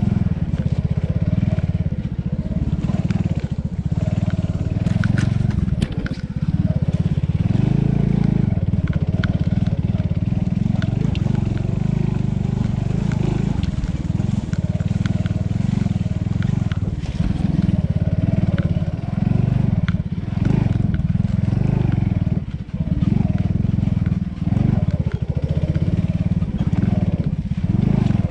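Small dirt bike engine running under way, its level rising and falling with the throttle, with a few sharp clicks about five or six seconds in.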